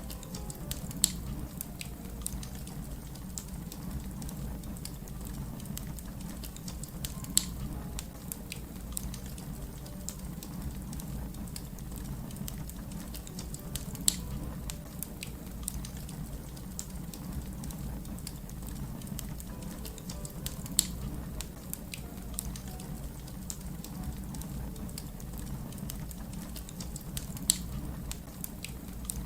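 Fire crackling: a steady low rumble with many small snaps, and five sharper pops evenly spaced about seven seconds apart.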